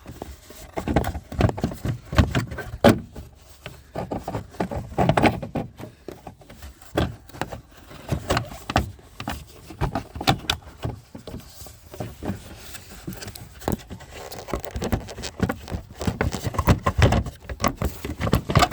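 Irregular clicks, knocks and scrapes of a plastic taillight assembly being handled and worked against the car body while its mounting studs are lined up with their holes.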